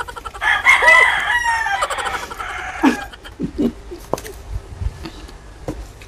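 A rooster crowing once, a loud call of about two seconds, followed by a few light clicks and knocks.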